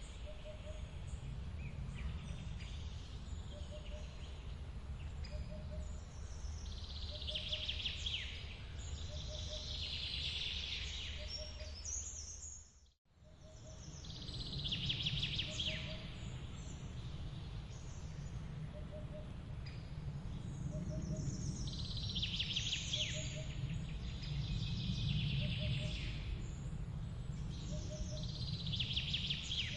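Forest waterfall ambience: steady rushing water under birds singing trilled phrases every few seconds, with a soft low note repeating about once a second and a bit. About 13 seconds in the whole sound dips out briefly and comes back.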